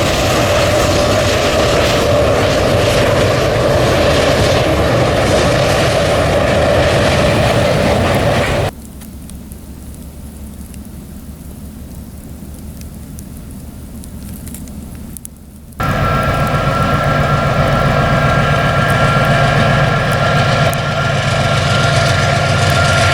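Train running on the rails, loud and steady with a held ringing tone; about nine seconds in the sound cuts abruptly to a quieter low rumble, and about seven seconds later it jumps back just as abruptly to full loudness with a new steady whine.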